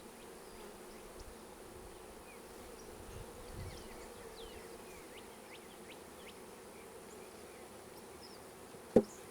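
A swarm of honey bees buzzing steadily around an open hive, with individual bees flying close by. A single sharp knock near the end.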